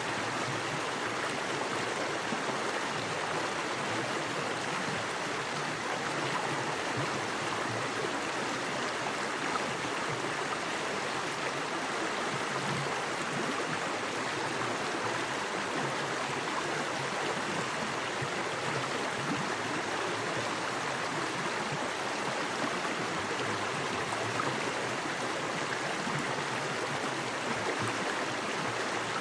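Small creek of fast water running over rocks: a steady, even rush.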